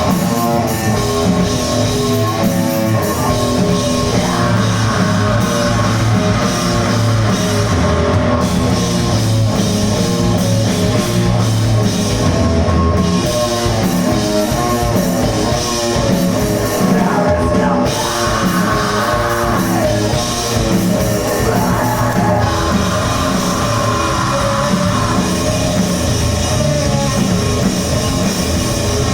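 Loud rock music with electric guitar and drum kit playing steadily.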